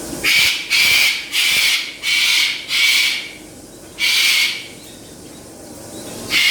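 A parrot screaming: loud, harsh screeches, five in quick succession about half a second apart, then two more spaced out. This is the piercing volume parrots can reach.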